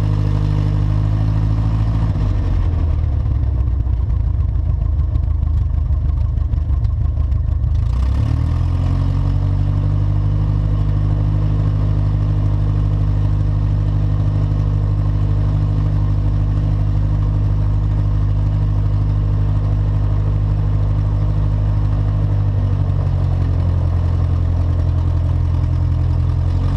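Light aircraft piston engine in a pre-takeoff run-up. Its speed drops about two seconds in, climbs back up around eight seconds, and then holds steady.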